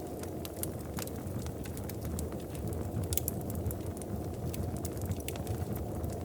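Wood fire crackling in a fireplace: a steady low rumble of the burning with frequent sharp pops and snaps scattered irregularly through it.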